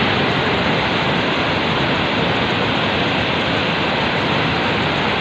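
Loud, steady rushing noise that stays even throughout, spread from low to fairly high pitch, with no distinct strikes or tones.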